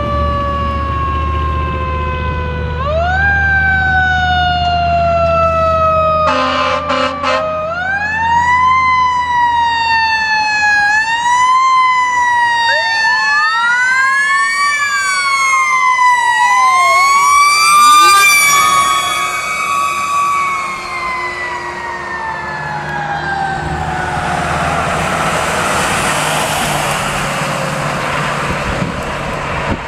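Electronic wail sirens of a fire engine and an ambulance, rising and falling in pitch, two sirens out of step with each other. There is a brief air horn blast about six seconds in. Near the end one siren winds steadily down in pitch under the loud rush of the Pierce Velocity engine's Detroit Series 60 diesel as the truck goes by.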